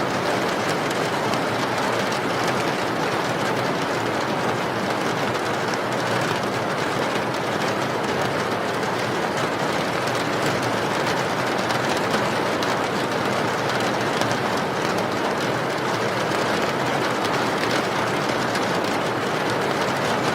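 Steady rain: an even, unbroken hiss with faint scattered patter.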